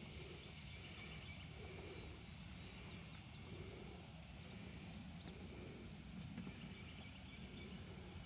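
Faint rural outdoor ambience: a steady high insect drone with a few faint bird chirps over a low background rumble.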